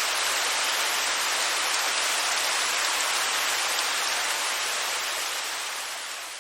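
Steady rush of a waterfall: a dense, even hiss of falling water that begins to fade out over the last couple of seconds.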